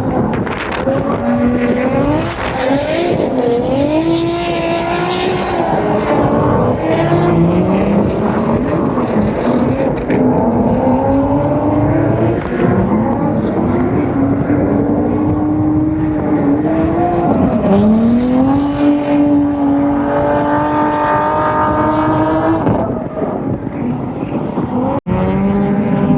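Drift car engine revving hard, its pitch climbing and falling again and again as the throttle is worked, over a continuous rushing noise. The sound drops out abruptly for an instant near the end.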